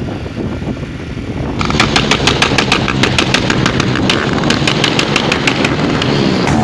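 An engine running, joined about one and a half seconds in by a rapid rattle of sharp clicks, and getting louder from there.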